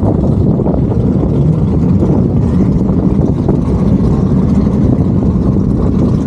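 A car engine running loudly at close range: a deep, steady rumble with a choppy texture and no clear rise or fall in pitch.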